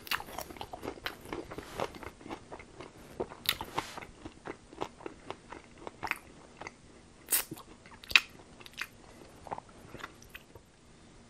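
Close-miked chewing of tempura-battered fried chicken wings: a dense run of crisp crunches and crackles from the batter, with a few sharper, louder crunches midway, growing sparser near the end.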